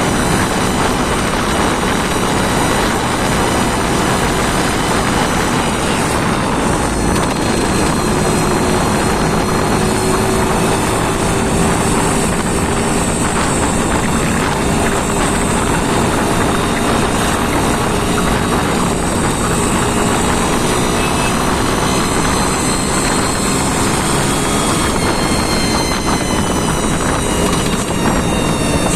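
An engine running steadily and loudly under test, its pitch holding nearly constant with only slight drifts up and down.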